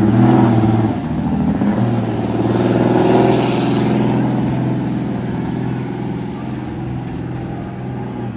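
A pulling vehicle's engine running loud and steady, strongest in the first few seconds and then gradually easing off.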